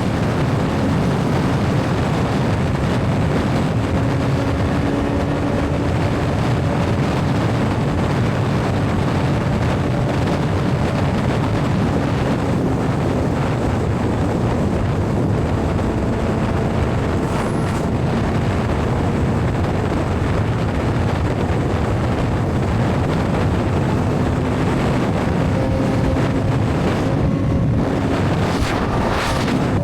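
Suzuki GSX-R750 inline-four motorcycle engine running steadily at cruising speed under heavy wind rush on the helmet-mounted microphone.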